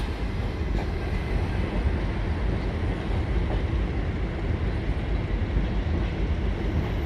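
Departing passenger train rolling away: a steady rumble from the coaches' wheels on the track, strongest in the low end.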